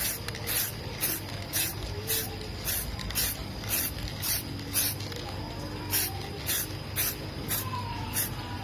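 Aerosol spray paint can fired in short hissing bursts, about two a second, as paint is sprayed onto a bicycle frame in quick dabs.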